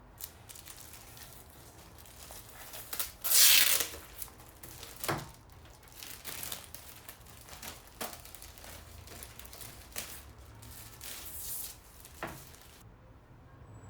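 Packaging being crinkled and handled, with one loud tear about three seconds in and several light knocks. The sound stops abruptly near the end.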